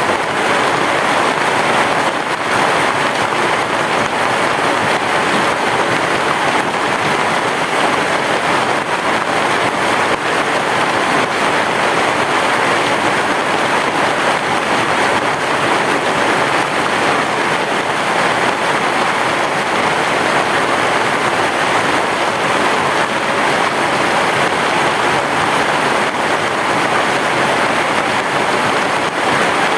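Heavy rain falling steadily: a dense, even hiss of rain.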